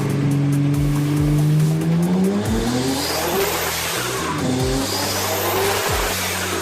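Twin-turbo Nissan R32 GT-R straight-six accelerating hard, its revs climbing steeply over the first two and a half seconds before it breaks into a loud full-throttle rush. Background music with a steady beat plays underneath.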